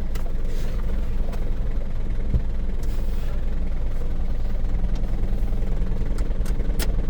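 Isuzu Elf diesel engine idling steadily with the air conditioning switched on, the AC compressor cycling on and off, with a few light clicks.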